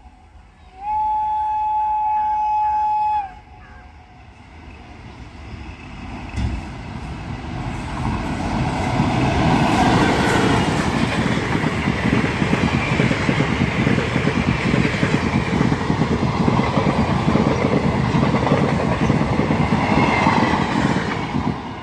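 Train horn sounds once for about two and a half seconds. Then the approaching train's rumble grows until a locomotive-hauled passenger train passes close by, its wheels clattering over the rails.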